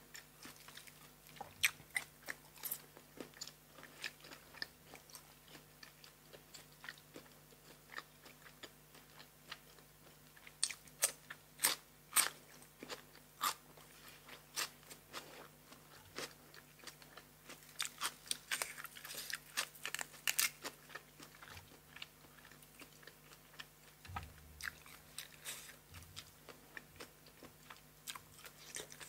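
A person chewing and biting crunchy food close to the microphone: irregular crisp crunches, busier about ten seconds in and again around twenty seconds.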